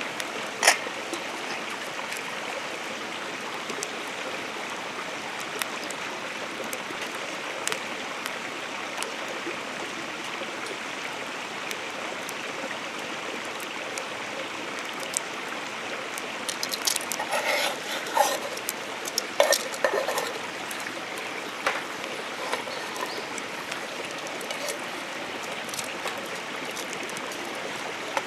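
Steady rain, with scattered sharp ticks and a cluster of louder clattering knocks about two-thirds of the way through.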